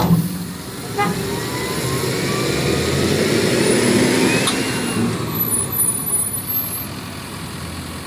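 Heavy diesel machinery at work unloading steel bars: an engine running under load that swells and rises in pitch toward the middle, then eases off. Sharp clanks come at the start, about a second in, and again near the five-second mark.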